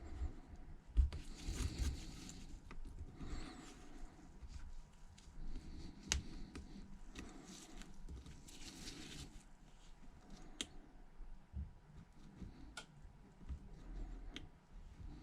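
Faint scratching and scattered small clicks of a hand tool working over an iPhone's back housing, scraping away leftover glass shards and glue, with a few low handling bumps.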